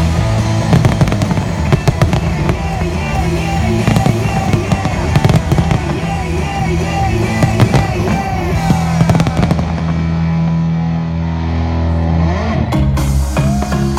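Fireworks banging and crackling in quick succession over loud music with a steady melody; the bangs thin out after about nine seconds, leaving mostly the music.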